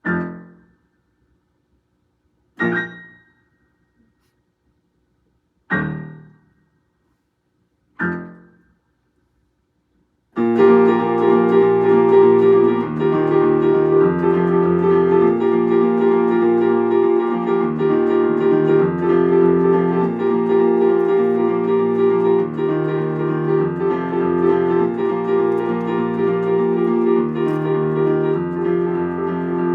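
Keyboard played solo: four single chords struck a few seconds apart, each dying away quickly, then from about ten seconds in a continuous run of chords, the instrumental lead-in before the vocals enter.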